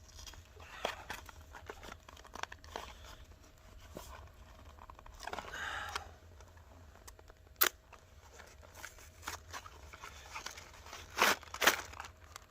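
Cardboard packaging of a saw chain handled, with tearing, crinkling and scattered light clicks. There is a sharp click about halfway through and two louder knocks near the end.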